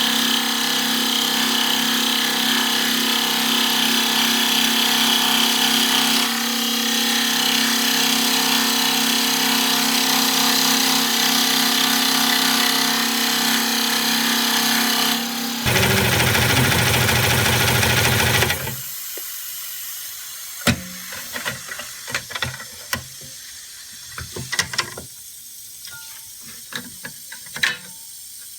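A power tool's motor runs steadily for about fifteen seconds, then gives way to a lower, louder machine sound for about three seconds. That stops suddenly, leaving scattered light taps and knocks.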